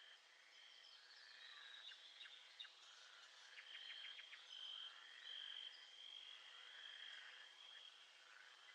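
Faint nature soundscape: a high trilling chorus repeating in pulses, with scattered chirps and a quick run of small clicks about four seconds in.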